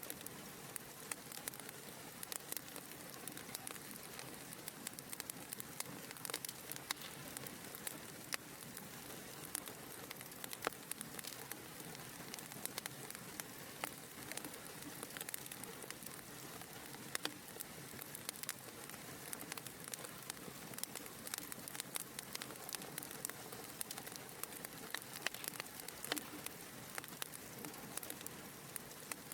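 Wood fire in a fireplace crackling, with frequent small sharp pops and snaps over a steady soft hiss of the flames.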